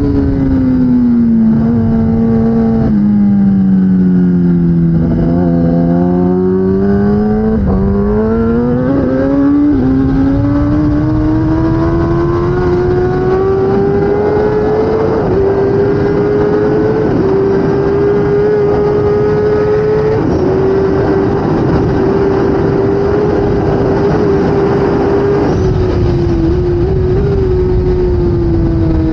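2016 Kawasaki ZX10R's inline-four engine running hard at racing speed. The engine pitch dips and rises twice in the first ten seconds, climbs and holds high with small drops at gear changes, then falls near the end, over a steady rush of wind and road noise.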